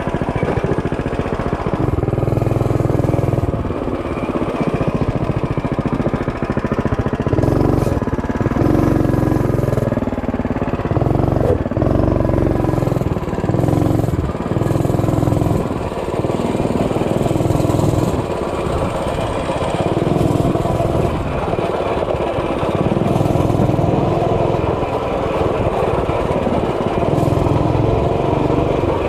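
Mini bike's small engine running under way, its loudness swelling and dipping every few seconds, heard from a helmet-mounted camera.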